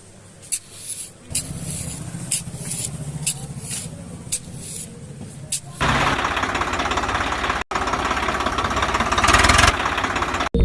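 Small electric motor of a DIY miniature tractor running, first a low hum with scattered clicks, then a louder, dense rattling buzz from about six seconds in.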